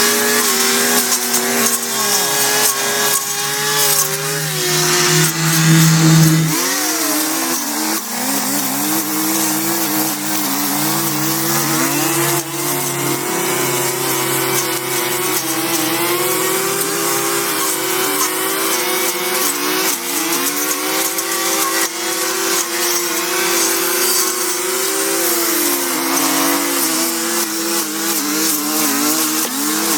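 A motor running continuously, its pitch holding steady for a few seconds at a time and then sliding up or down to a new level.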